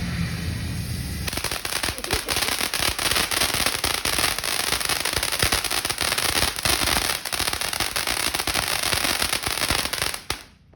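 Firework fountain spraying sparks with a dense crackle of many fine pops. The crackle starts suddenly about a second in and stops abruptly near the end.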